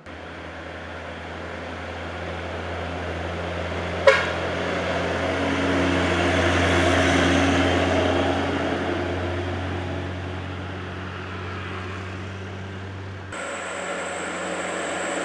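Heavy truck passing by with a steady low engine drone and road noise, growing louder then fading away, with a single sharp knock about four seconds in. The sound changes abruptly shortly before the end.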